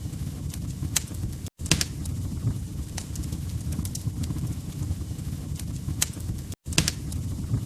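Wood fire burning in a fireplace: a steady low rumble of flames with irregular sharp crackles and pops from the logs. The sound cuts out for an instant twice, about a second and a half in and near the end.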